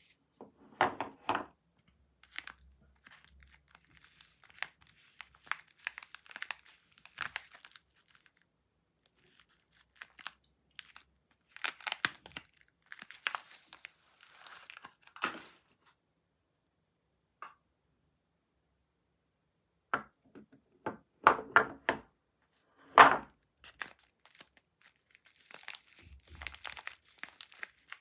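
Soap packaging being unwrapped by hand: wrapping crinkling and tearing in short, irregular spells, with a few sharp taps and a quiet pause of a few seconds in the middle. The loudest crackle comes near the end.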